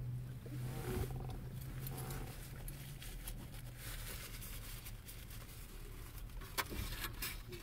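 Eating sounds: chewing fried green tomatoes, with scattered clicks and rustles from a takeout container and napkin. A steady low hum runs under the first three seconds, then stops.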